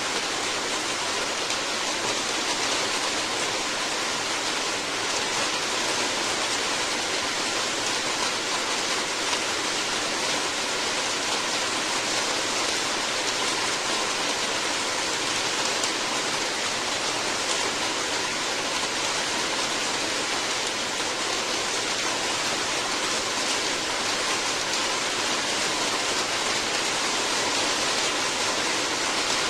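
Steady heavy rain falling, an even unbroken hiss with no individual drops standing out.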